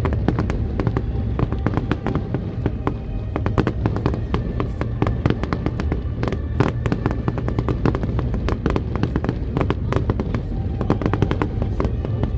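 Fireworks display going off nonstop: a dense run of overlapping bangs and crackles, many per second, over a continuous low rumble.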